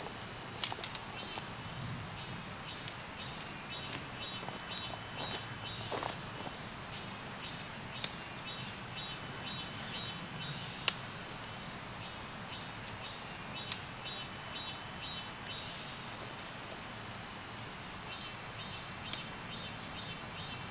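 Outdoor creekside ambience: a steady hiss of running water under a faint high insect drone, with repeated quick series of short high chirps. A handful of sharp clicks or taps stand out, the loudest about a second in and near 11 and 14 seconds.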